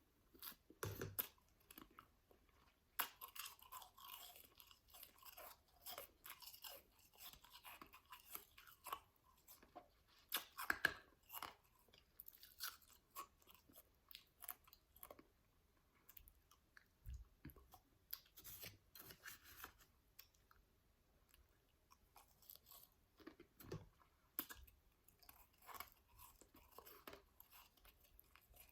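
A person chewing a mouthful of powdery shaved ice: many soft, irregular crunches with short pauses between bites, loudest about ten seconds in.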